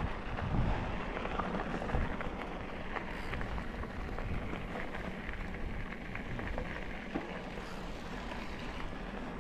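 Bicycle riding along an outdoor path: tyres rolling with a steady rustle and a constant crackle of small ticks, a few louder knocks near the start, over a low rumble of wind on the microphone.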